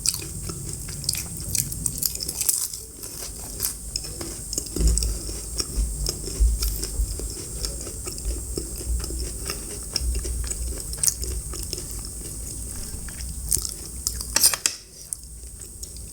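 Close-miked eating: biting and chewing food, with many small crunchy clicks and a louder crunch about three-quarters of the way through.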